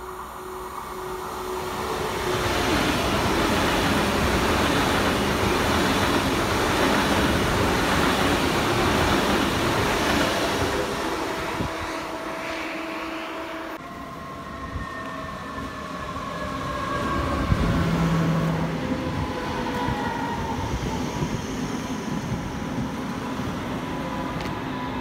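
An ICE high-speed train passing through the station at speed: a loud rush of wheel and air noise that builds over a couple of seconds and holds for several more. After a cut, a red DB electric multiple unit rolls along the platform, its motors giving a whine that falls slowly in pitch as the train slows.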